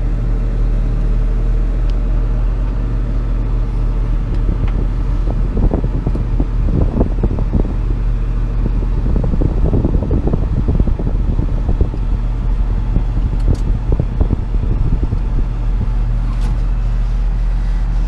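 Tractor engine running at a steady speed, with irregular rustling and rough noises over it through the middle stretch.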